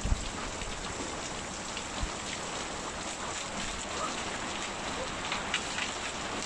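Steady rain falling, with scattered heavier drops on a surface. There is a low thump just after the start and another about two seconds in.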